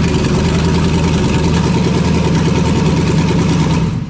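A 5.3-litre LS V8 running steadily on its first start, then shut off, cutting out suddenly near the end.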